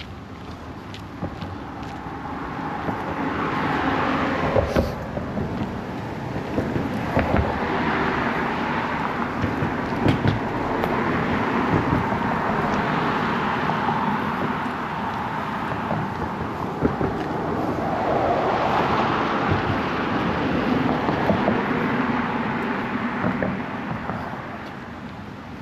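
Road traffic: several vehicles passing one after another, each swelling up and fading away.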